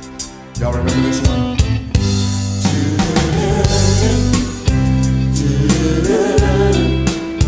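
A band playing: drum kit, bass and guitar come in together about half a second in after a brief quiet moment, then play on steadily.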